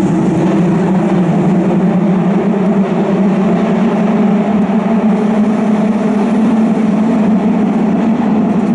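Hanshin Railway train car running between stations, heard from inside the cabin: a steady, even rumble of wheels and motors.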